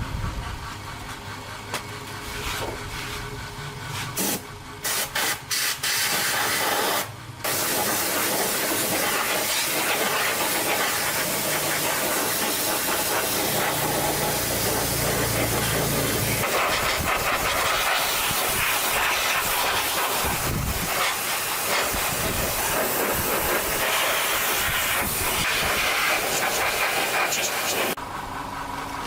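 Loud, steady hissing spray, like air or fluid forced through a nozzle: a few short bursts at first, then one long continuous run that cuts off suddenly a second before the end.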